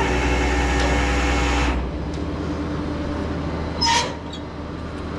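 An engine running steadily with a low rumble, louder for the first couple of seconds and then settling lower, with a brief squeak about four seconds in.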